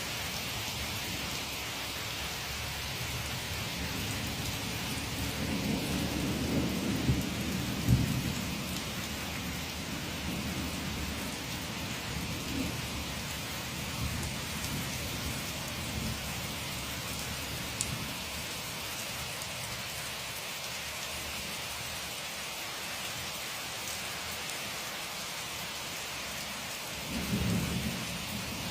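Steady rain hissing without a break, with low rumbles of thunder swelling about a fifth of the way in and again briefly near the end.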